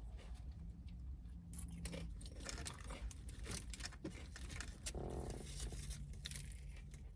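Faint chewing of a buffalo chicken tender sub, with scattered small crunches and soft wrapper-paper crackles.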